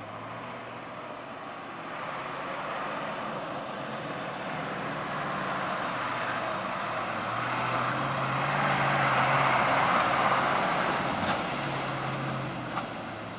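Ural 4320 army truck's diesel engine running as the truck drives. The noise grows louder to a peak about ten seconds in, then fades, with a low engine hum coming and going and two short clicks near the end.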